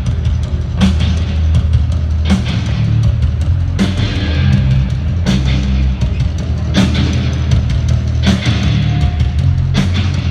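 Live rock band playing an instrumental passage: loud low bass and guitar with drums, a hard hit landing about every second and a half.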